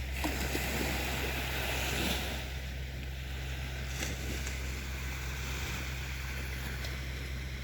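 Sea waves washing onto the shore, one wash swelling about two seconds in, over a steady low rumble.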